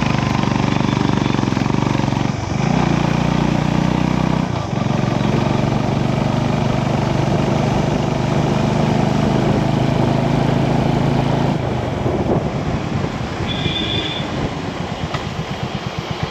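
Motorcycle engine running steadily, its pitch briefly dipping twice, then settling into an uneven, pulsing idle. A short high-pitched beep sounds near the end.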